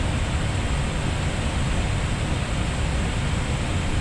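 Steady rushing noise of airflow and engines inside an Airbus A320neo's flight deck during the climb, even and unbroken, heaviest in the low range.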